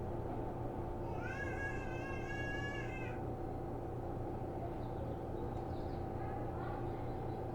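Steady hum of a stopped Seibu New 2000 series train car with its onboard equipment running. About a second in, a high, drawn-out call rises briefly and then holds for about two seconds, and a few fainter short calls follow near the end.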